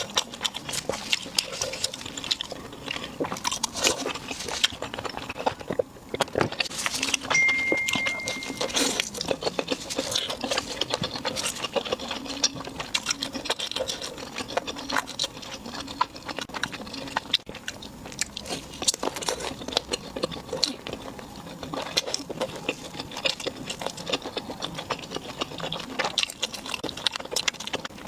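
Close-miked eating: a person chewing and biting food, with a dense, irregular run of small clicks and mouth noises.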